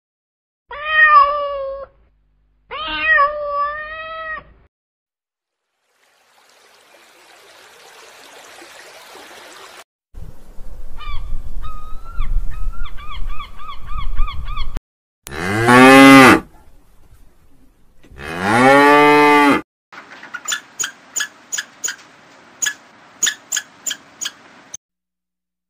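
A run of different animal calls. Two short meows come near the start. About halfway through, a cow moos loudly twice, each moo rising and falling. Between them are chirping calls, and near the end comes a quick string of short pulses.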